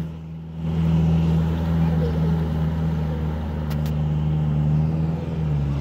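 Engine of a UAZ off-roader running steadily as it drives through shallow river water, its note settling a little lower about five seconds in.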